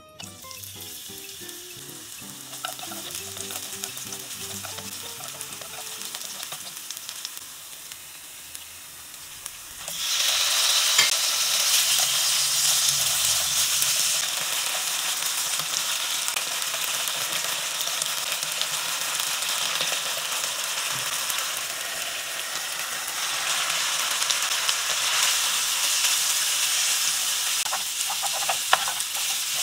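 Chopped spring onion sizzling in hot cooking oil in a nonstick pan. About ten seconds in, the frying jumps much louder as sliced chicken breast is added, and it keeps up a steady loud sizzle while the food is stir-fried.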